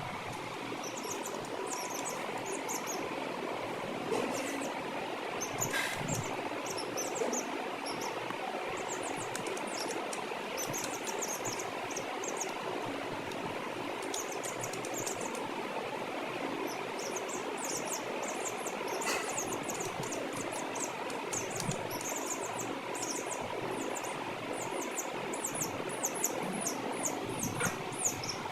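Chicks peeping: short, very high-pitched chirps in quick clusters that keep coming, over a steady background hiss.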